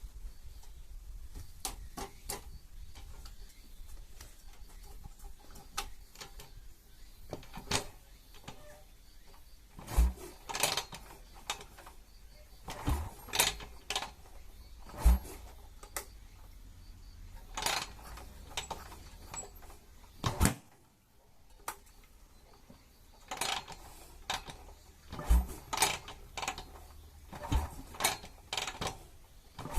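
Irregular knocks and clicks of objects being handled and set down, a dozen or so sharp ones spread unevenly, over a faint low steady background.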